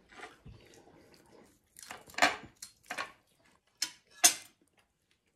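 Cutlery and crockery clinking on a plate: a handful of sharp clinks between about two and four and a half seconds in, the loudest just after four seconds, over faint handling of food on the plate.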